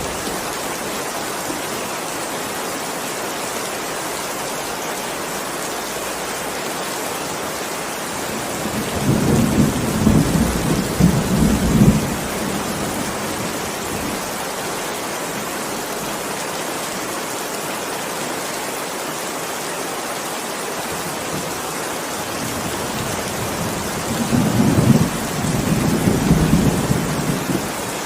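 Steady heavy rain hissing, with thunder rumbling twice, each roll lasting a few seconds, once about a third of the way in and again near the end.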